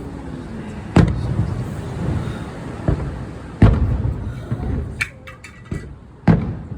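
Aerial fireworks bursting. Loud booms with rumbling tails come about one, three and a half and six seconds in, the last the loudest, with a smaller bang between them and a quick run of crackling pops about five seconds in.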